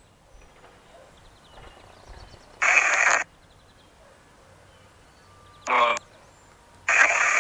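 Radio-sweep ghost box hissing in short bursts of static: one about two and a half seconds in, a brief harsher pitched burst near six seconds, and another starting about a second before the end.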